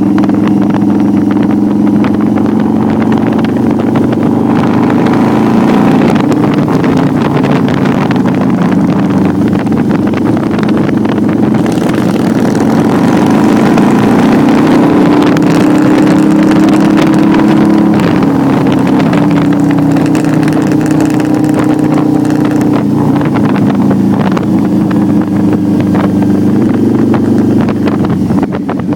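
Cruiser motorcycle engine running under way, heard from the rider's seat. Its pitch steps up and down several times as the throttle and gears change. Wind rushes over the microphone.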